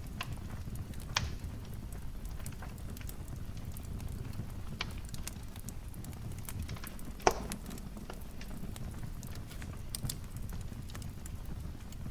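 Wood fire crackling in a fireplace: a steady low rumble of burning with scattered small ticks and snaps, and two sharper pops, the louder about seven seconds in.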